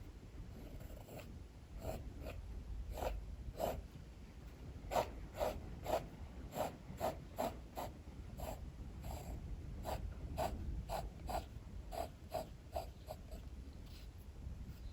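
Drawing implement scratching on paper in short sketching strokes, roughly two a second, over a steady low rumble of strong wind.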